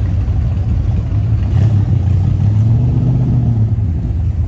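Low engine rumble of a classic car driving past at low speed, its pitch rising a little about two and a half seconds in and falling away again near the end.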